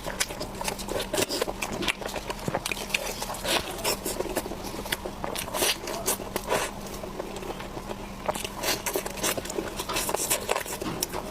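Close-miked chewing and mouth sounds: irregular wet smacks and clicks as food is chewed, several a second.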